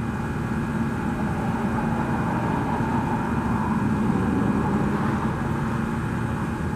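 A loud, steady engine drone with a constant low hum.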